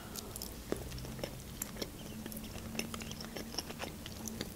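A person chewing a mouthful of pan-fried pelmeni dumplings close to the microphone, with many small, irregular mouth clicks.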